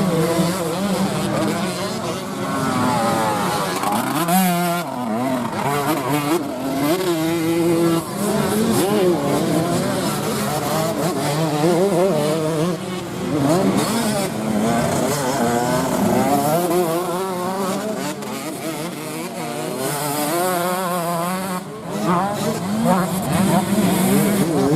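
Several racing dirt-bike engines revving hard and backing off over and over as the bikes race around a dirt track, their pitches rising and falling and overlapping.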